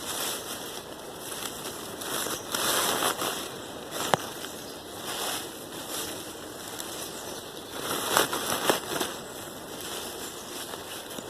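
Dry leaves rustling in repeated bursts as they are scooped up and stuffed into a bag, with a few sharp clicks among them.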